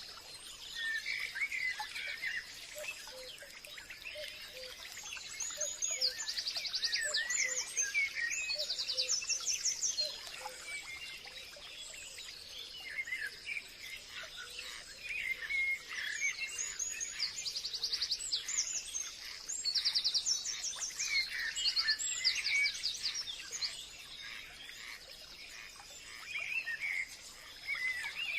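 Several birds singing and chirping in a forest, with repeated quick trills and short whistled phrases, over a faint steady high buzz like an insect.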